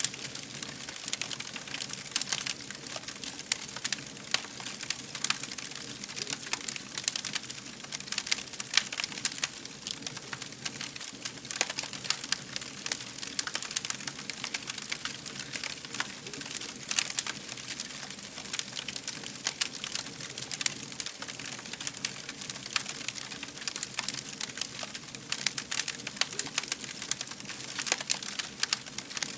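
Wood fire crackling: a dense, irregular run of sharp pops and snaps over a steady soft hiss.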